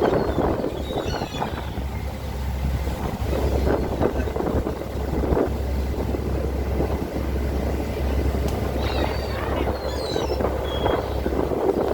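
Strong wind buffeting the microphone aboard a boat: a heavy, steady low rumble under a rushing hiss that swells and eases. Short high chirps come through a few times, about a second in and again near the nine-second mark.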